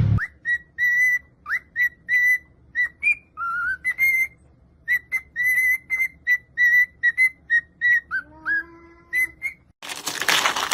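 A rapid, uneven series of short, high, whistle-like peeps, about two or three a second, with a lower drawn-out call about eight seconds in and a sudden loud noisy burst in the last second.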